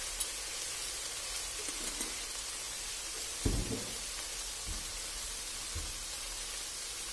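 Diced eggplant and tomato passata sizzling in a frying pan, a steady hiss, with a dull thump about halfway through.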